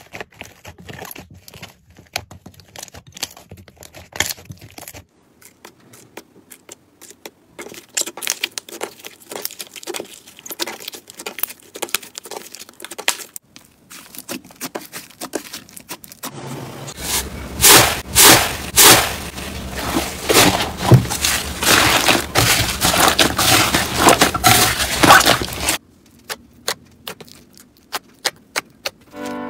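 Slime being squeezed and pressed by hand, giving rapid trains of crackling, popping clicks. The crackling changes character a few times and is loudest and densest in a long stretch past the middle.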